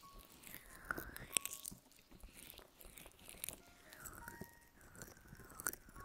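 ASMR ear-massage sounds on a close microphone: faint soft swishing strokes broken by quick sharp ticks and scratches, the sharpest about a second and a half in.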